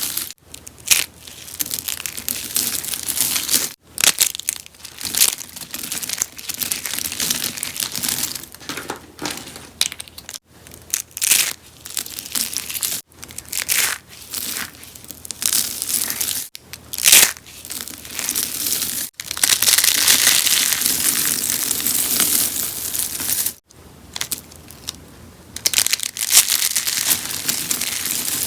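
Rose soap being crushed and crunched, a dense crackling crunch in uneven bursts, broken by several sudden brief silences.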